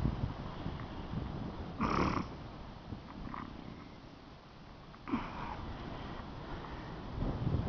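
Wind rumbling on the microphone, with two short higher-pitched sounds about two and five seconds in.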